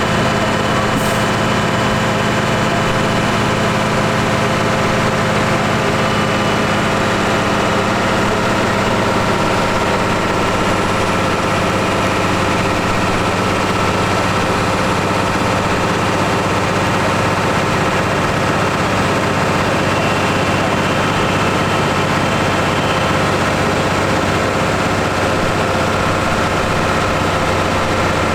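New Holland T7 170 tractor engine running at a steady, unchanging speed during dynamometer power testing.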